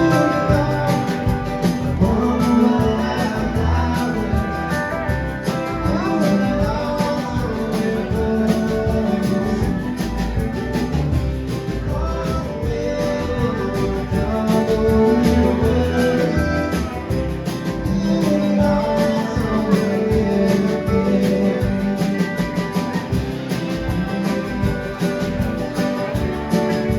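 A band playing a song: guitar with a singer, loud and continuous.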